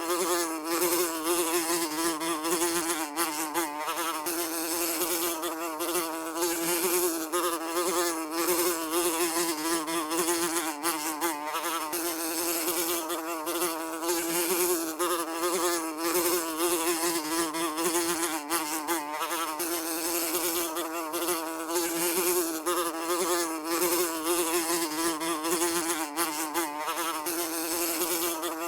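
A fly buzzing continuously: a steady wingbeat hum whose pitch wavers slightly and whose loudness flutters.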